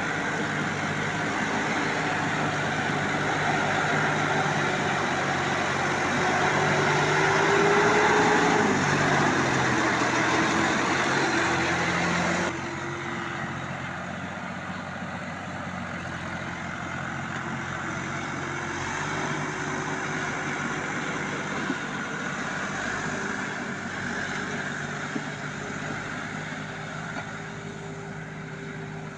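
Tractor engine running steadily, its pitch rising briefly and dropping back about eight to nine seconds in. About twelve seconds in the sound switches abruptly to a quieter engine note.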